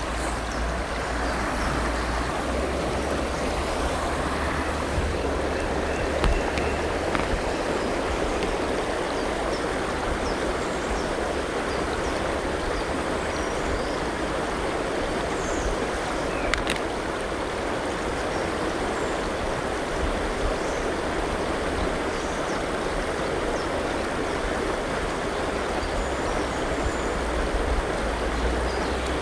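River water flowing steadily over rocks, with a few faint, brief bird calls scattered above it.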